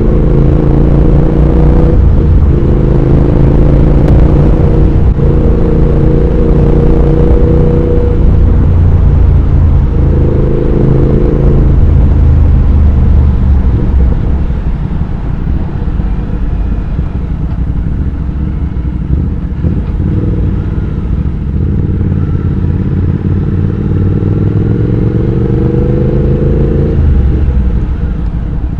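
Triumph Speed Twin 1200's parallel-twin engine and exhaust under way, pulling up through the gears in the first eleven seconds or so, its pitch rising in steps broken by shifts. It then eases to a lower, quieter run, and accelerates again about two-thirds through before backing off near the end.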